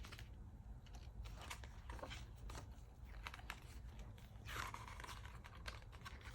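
Faint paper handling as pages of an album photobook are turned: small ticks and rustles, with one longer page-turn swish about four and a half seconds in.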